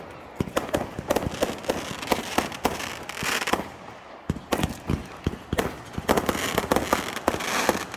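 Fireworks display: a rapid, irregular string of bangs and pops, with denser stretches of crackling about three seconds in and again near the end.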